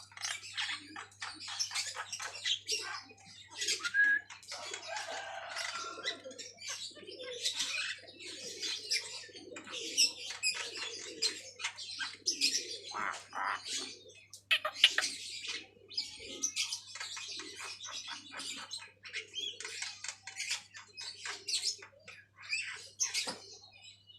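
Javan myna (jalak kebo) singing: a continuous run of harsh, chattering, rasping calls with a few brief whistled notes, with hardly a pause.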